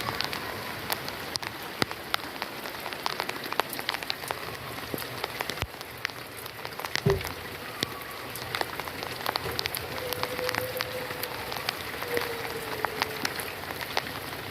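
Steady rain falling, with many separate drops ticking sharply on a hard surface over the even hiss. A brief low thump comes about seven seconds in.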